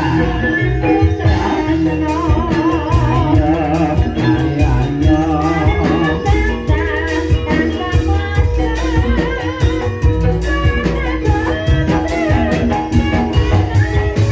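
Live ebeg gending music: drum and gamelan-style percussion in a dense steady rhythm under a sung melody with wavering vibrato.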